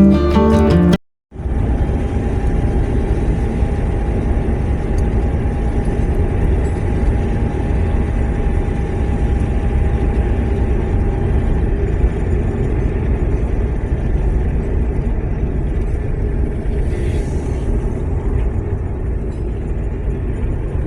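Music cuts off about a second in, and after a short gap a car's steady low running rumble sets in. A faint steady tone sounds over the rumble until about halfway through.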